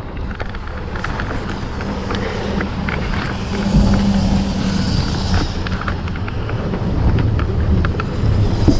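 A vehicle's engine running steadily, with many light, irregular ticks and clicks over the hum.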